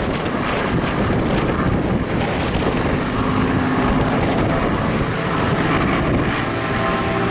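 Wind buffeting the microphone over the steady, distant drone of the Spitfire Mk IX's Merlin engine.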